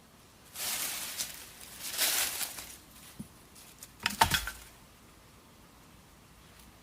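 Handling noises: two rustling scrapes, then a short cluster of knocks with a dull thud about four seconds in.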